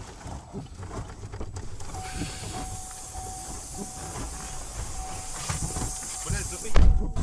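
Steady hissing with a faint held tone under it, then a sudden loud change near the end.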